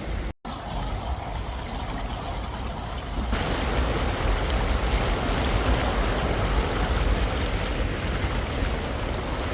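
Steady rush of moving water, growing louder and brighter about three seconds in.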